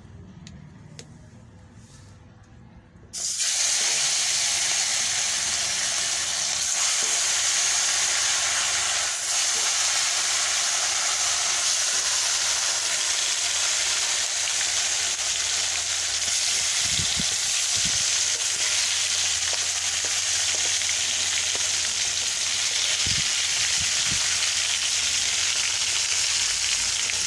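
Fish frying in hot oil: a loud, steady sizzle that starts suddenly about three seconds in. A few soft low knocks come later on.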